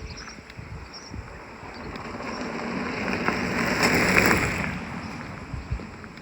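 A vehicle passing by: its noise swells to a peak about four seconds in, then fades away.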